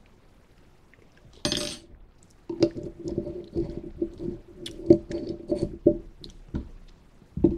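Close-up mouth sounds of someone tasting crunchy chili crisp: a short sharp intake about a second and a half in, then a few seconds of wet chewing and crunching, many small clicks over a low steady tone.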